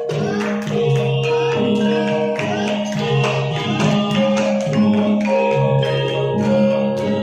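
Javanese traditional music: struck metallophones ringing out a melody, with notes sounding in quick succession.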